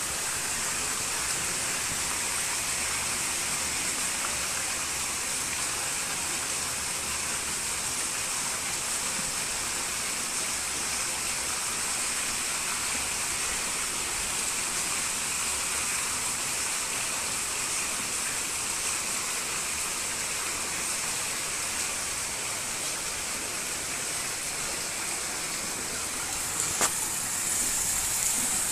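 Heavy rain falling steadily onto a flooded street, an even hiss of drops striking standing water. A brief knock near the end.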